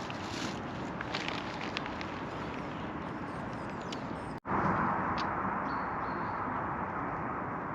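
Outdoor nature ambience: a steady rushing noise with scattered light ticks, broken by an abrupt cut about four and a half seconds in, after which the rushing is louder. A brief high whistle-like note sounds about a second after the cut.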